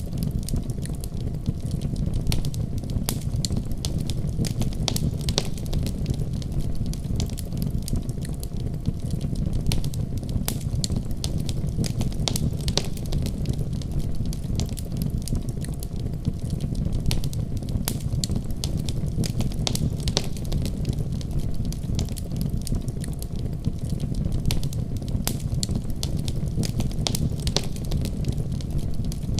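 Wood fire in a fireplace crackling, with frequent sharp pops and snaps scattered irregularly over a steady low rumble.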